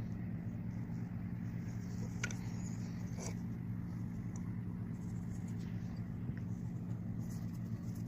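A steady low mechanical hum, with a couple of faint clicks about two and three seconds in.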